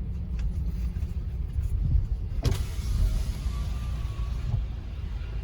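Low, steady rumble of a car heard from inside the cabin, with a sharp click about two and a half seconds in.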